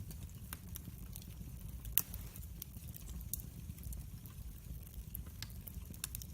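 Log fire in a fireplace crackling, a steady low rumble of flames with scattered sharp pops, one louder pop about two seconds in.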